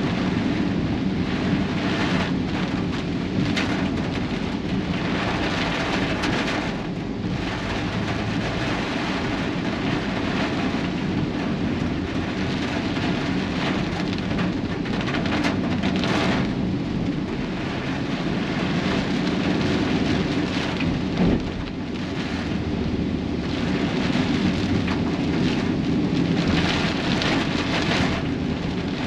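Steady rain with wind, under a constant low road rumble from a vehicle travelling through a rainstorm. The noise swells and eases, with one short knock about two-thirds of the way through.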